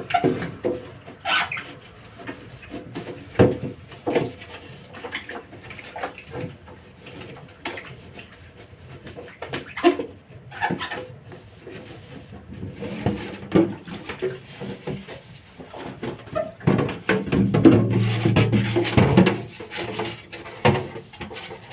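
Scattered knocks, clunks and rubbing of household items being handled and scrubbed, busier in the last few seconds.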